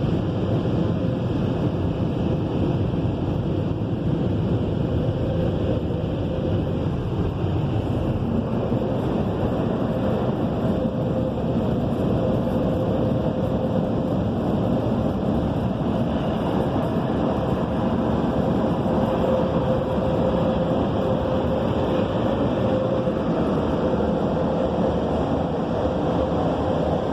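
Car wash Premier air dryers blowing hard and steadily on the car, heard from inside the cabin: a constant rush of air with a steady hum.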